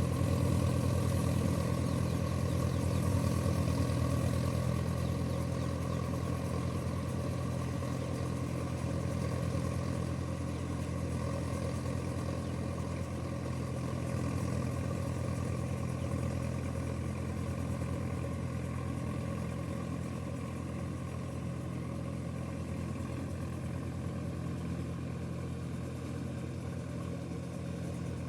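Sonalika RX tractor's diesel engine running steadily, growing slightly quieter toward the end.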